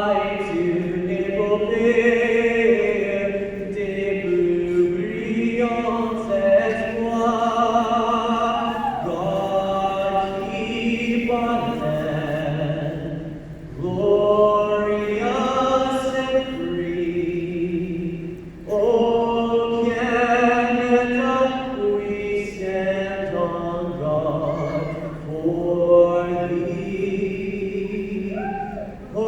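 A solo singer singing a national anthem, held notes in long phrases with brief pauses between them.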